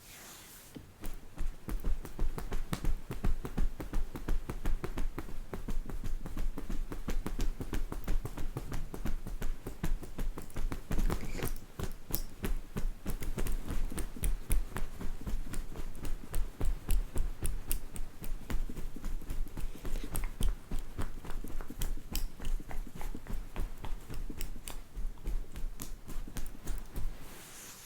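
Rapid close-up tapping and clicking, several strokes a second, with low thuds under them.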